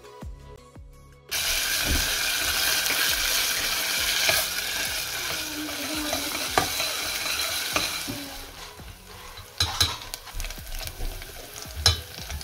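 Tomato puree frying in hot oil in a stainless steel pot while a metal spoon stirs it. A loud sizzle starts suddenly about a second in and dies down in the second half, and a few sharp clinks of the spoon on the pot come near the end.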